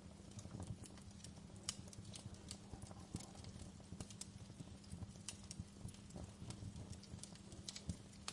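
Wood fire crackling: irregular sharp pops and snaps, several a second, over a soft hiss and a low steady hum.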